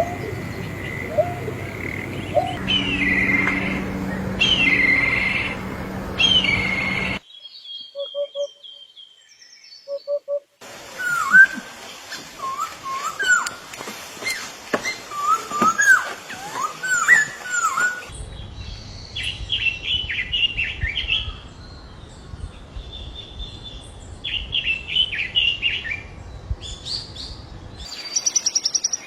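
Birds singing and calling: repeated short chirps and whistled notes. The birds and the background change abruptly every several seconds, as separate bird recordings are cut together.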